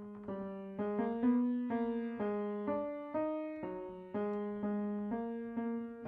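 Background piano music: a slow melody of struck notes, about two a second, each fading away.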